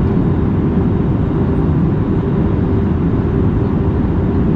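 Airbus A320neo airliner cabin noise on approach: a steady rush of airflow and engine noise, mostly low, with a faint constant hum.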